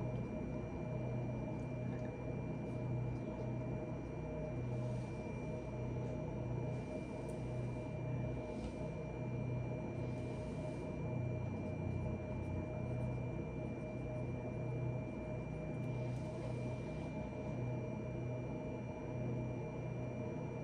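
Steady electrical hum with a faint high whine over it, with a few soft, brief rustles.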